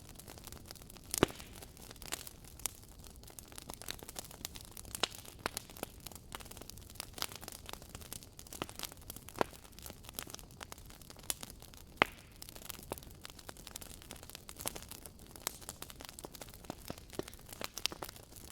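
Wood fire crackling: irregular sharp pops and snaps over a soft steady hiss, with two louder pops about a second in and about two-thirds of the way through.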